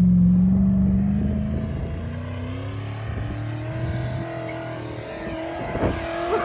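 A gasoline V8 truck engine revving hard in soft sand, pitch rising slightly, then fading away over the next few seconds.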